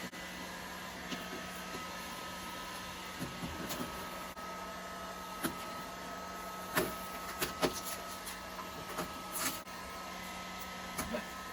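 Heat gun running steadily with a blowing hiss and a hum, used to soften vinyl wrap so it can be peeled off a car door. Scattered small clicks and ticks are heard over it, mostly in the middle.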